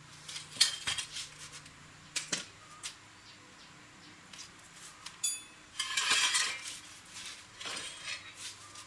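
Metal parts and hand tools clinking and tapping in irregular handling, with a short ringing clink about five seconds in and a brief scraping rustle just after.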